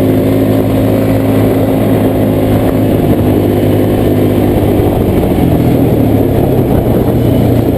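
Quad bike (ATV) engine running under way, loud and steady, its even engine note turning rougher and noisier soon after the start.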